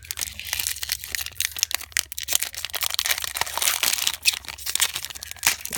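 Foil booster pack wrapper crinkling and tearing as it is opened by hand, a dense, irregular crackle.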